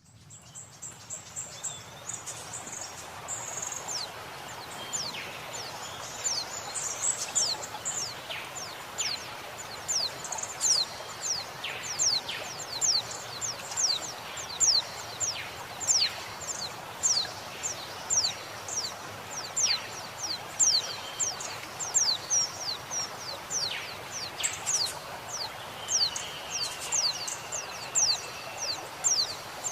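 Female white-eye (pleci) calling: thin, high notes, each falling quickly in pitch, repeated once or twice a second over a steady rush of flowing water. Late on, another bird gives a longer, level whistle.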